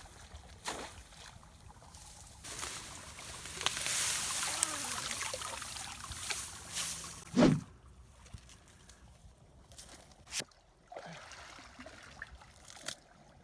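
Water splashing and sloshing for a few seconds as mud and water are worked with a shovel in a flooded rice field's drain box, ending in one sharp knock about seven and a half seconds in. Quieter trickling and small clicks follow.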